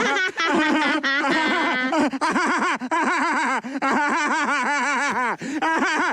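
Laughter: a long run of high-pitched, repeated laughs.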